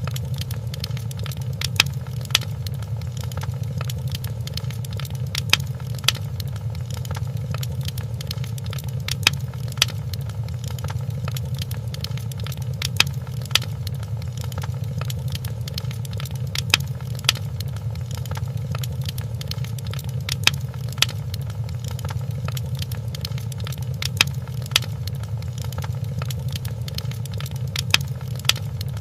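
Wood fire crackling in a fireplace: a steady low rumble with a constant scatter of small crackles, and louder pops that come in pairs every few seconds.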